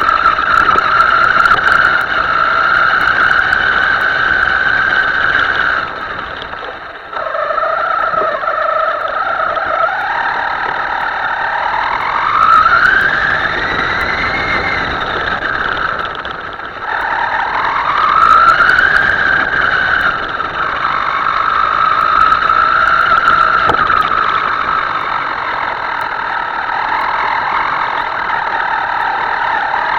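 Radio-controlled model boat's motor whining at speed, its pitch rising and falling with the throttle. It cuts back briefly twice and climbs sharply in pitch twice.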